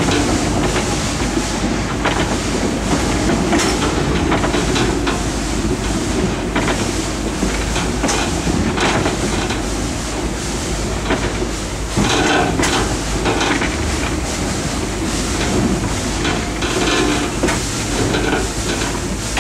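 Rack-railway steam train climbing the rack section: a steady running rumble with frequent irregular knocks and clanks from the wheels and rack gear.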